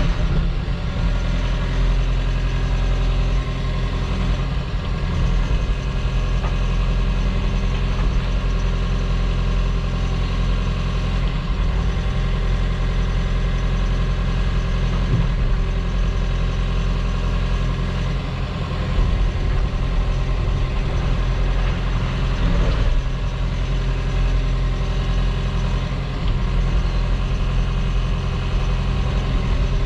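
Diesel engine of a piece of heavy earthmoving equipment running steadily under work while spreading crushed rock, with a few brief knocks.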